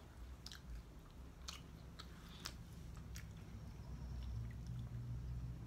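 A person chewing fried chicken and fries close to the microphone, with soft wet mouth clicks about once or twice a second, over a low steady hum.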